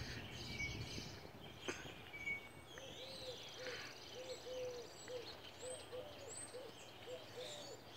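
Faint birdsong: a bird gives a quick run of short, low notes, two or three a second, starting about three seconds in, while other small birds chirp higher up.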